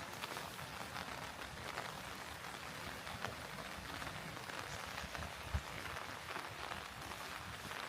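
Steady rain falling, with many close, irregular drop ticks over an even hiss. One single low thump comes a little past two-thirds of the way through.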